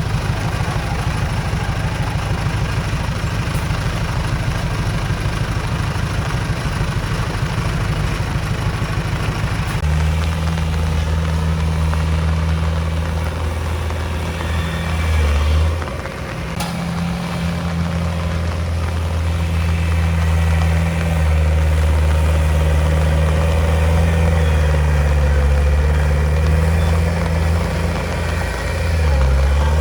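Heavy diesel engine of earthmoving equipment running steadily: a rapid low throb at first, then from about ten seconds in a steadier, stronger hum, which dips briefly around the middle and again near the end.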